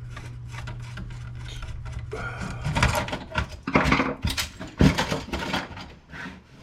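Plastic printer housing and parts rattling and knocking as the printer is taken apart by hand, with a few sharp clacks in the middle. A steady low hum runs under the first couple of seconds.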